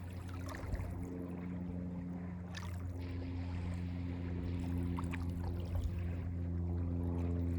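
Motorboat engine droning steadily and growing slowly louder, with small waves lapping and splashing at the water's edge.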